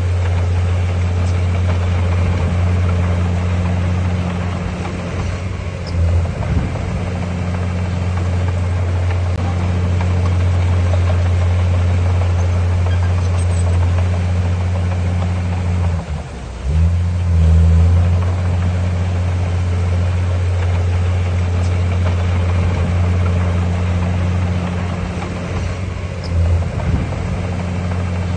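Heavy diesel engine of earthmoving machinery running steadily under load. It drops off sharply about two-thirds of the way through, then revs back up loudly, with smaller surges near the start and near the end.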